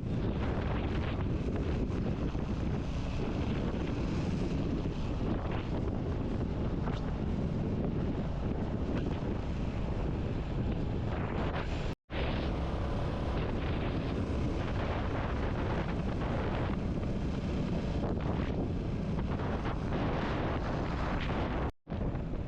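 Wind buffeting the action-camera microphone while riding, over the running of a Royal Enfield Classic 350's single-cylinder engine and road noise. The sound cuts out for a split second twice, about twelve seconds in and just before the end.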